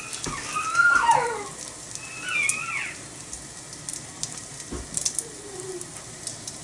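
Small wood fire crackling under an iron griddle, with scattered sharp ticks. Over it come a few high calls that slide up and down in pitch, the loudest about a second in and again near two and a half seconds.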